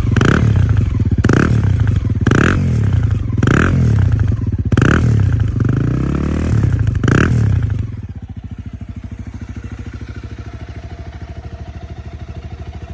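Honda CRF250L single-cylinder four-stroke engine and exhaust, revved in about six quick throttle blips, each rising and falling in pitch, then settling to a steady idle about eight seconds in.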